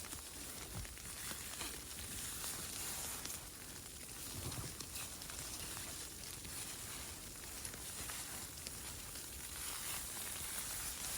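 Steady hiss of falling snow and sleet on a thin nylon tent, with a few faint rustles and a soft low thump about four and a half seconds in.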